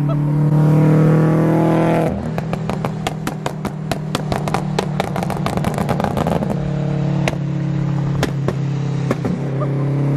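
Vortech-supercharged Toyota GT86's flat-four running through a cat-less exhaust. About two seconds in it comes off the throttle and the exhaust crackles with a rapid string of pops and backfires for several seconds. It then settles back to a steady run, with a few single pops near the end.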